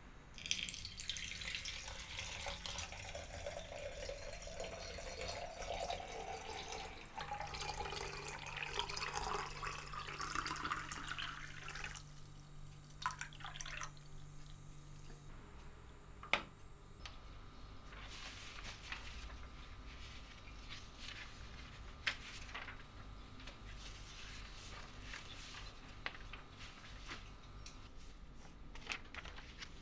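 Water running from a tap into a container for about eleven seconds, its pitch climbing as the container fills. After it stops come scattered light clicks and knocks.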